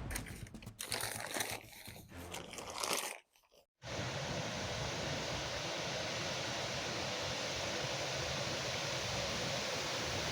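Irregular crunching and rustling for about three seconds, a sudden cut to silence, then a steady, even rush of wind noise.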